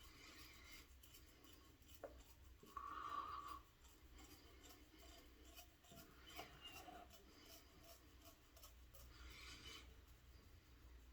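Faint scraping of a double-edge safety razor, a Gillette Red Tip with a Kai blade, drawn through lathered stubble in a few short strokes, with a slightly louder rasp about three seconds in.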